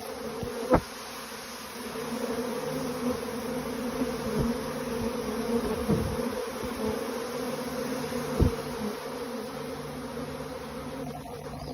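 Honeybee swarm leaving the hive: a dense, steady buzzing hum of many bees in flight, with single bees zipping close past a few times.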